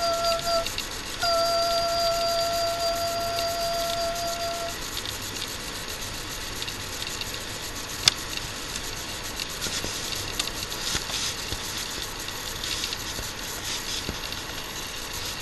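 A high, steady musical note, held briefly, broken off, then held again for about three and a half seconds. After it comes a steady hiss with a single sharp click about eight seconds in.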